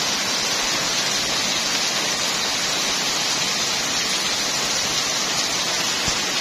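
Torrential rain pouring down with strong wind, a dense, steady hiss without a break.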